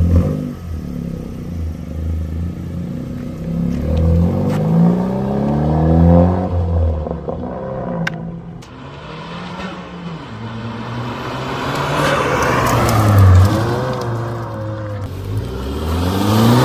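Alfa Romeo Giulia's turbocharged engine accelerating, its pitch climbing through the gears and dropping back at each shift, with a hard rise again near the end.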